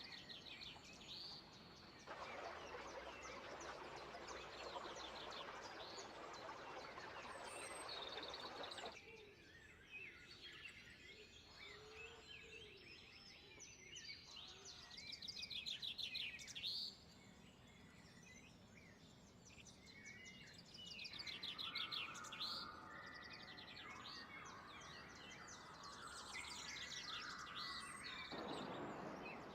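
Several songbirds chirping and trilling, with short high calls and rapid trills, over a steady background hiss. The hiss grows louder for several seconds near the start and again near the end.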